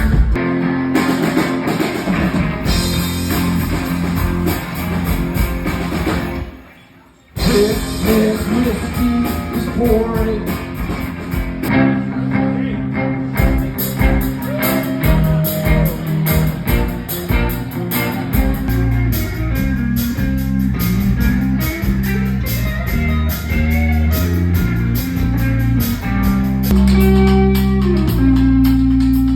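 A live rock band playing, led by guitar with drums underneath. The music drops out briefly about seven seconds in, then carries on.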